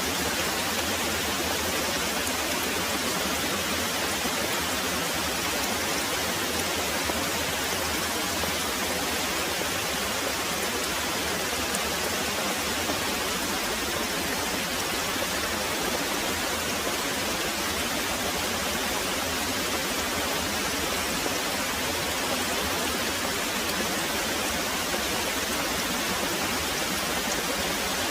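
Very heavy rain pouring steadily, an even hiss with no thunder heard.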